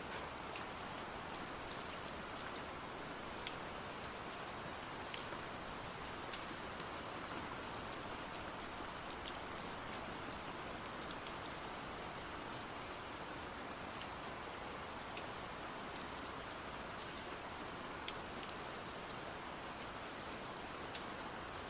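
Steady rain falling, an even hiss with scattered individual drops ticking sharply on a hard surface.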